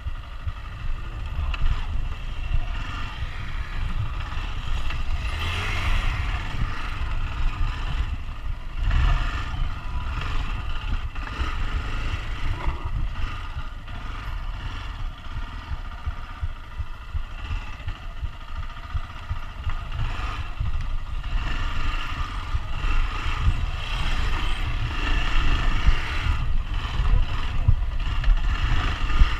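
Motorcycle engines running over a heavy low rumble.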